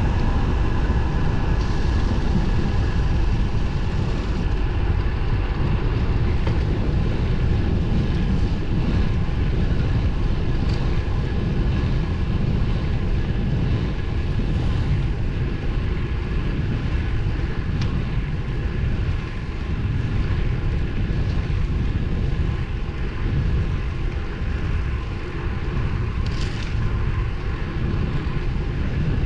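Steady wind rush and road noise while riding a road bike at speed: a loud low rumble of wind over the microphone and tyres on pavement, with a few faint clicks.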